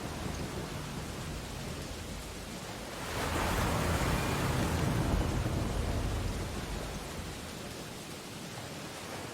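Ocean waves washing on a beach: a steady hiss of surf, with one wave swelling up about three seconds in and draining away a few seconds later.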